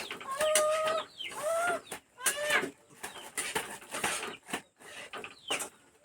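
Domestic chickens clucking: three or four short pitched calls in the first three seconds, with scattered clicks.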